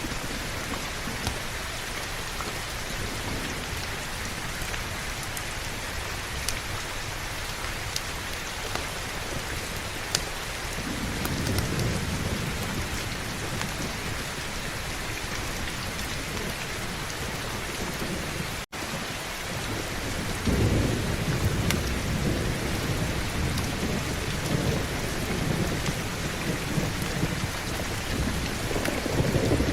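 Heavy rain falling steadily, with low thunder rumbling in about ten seconds in and again, louder, from about twenty seconds on. The sound cuts out for an instant a little past halfway.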